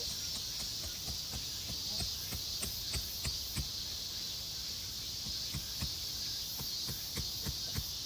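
Steady chirring of insects, with a series of soft, low knocks from gear being handled that come more often in the second half.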